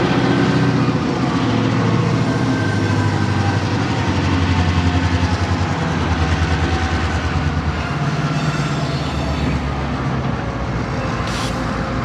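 EMD GP38-2 locomotive's roots-blown 16-cylinder 645 diesel working hard, with a deep pulsing throb, as it lugs a heavy cut of freight cars. A brief hiss comes near the end.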